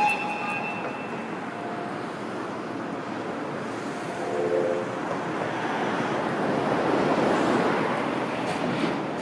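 Train running on the rails: a steady rush of wheel and running noise that swells about six seconds in, with a short high squeal at the start.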